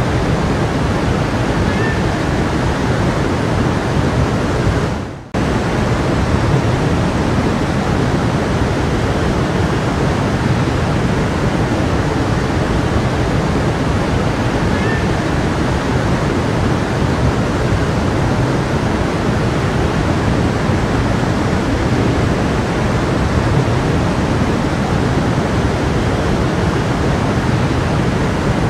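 Brook water flowing steadily over stones, a continuous rushing. About five seconds in the sound fades away for a moment and cuts straight back in, as at the join of a looped recording.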